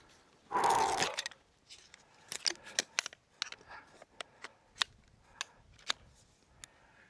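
Camping gear being handled by hand: a short rustle about half a second in, then a run of irregular sharp clicks and taps.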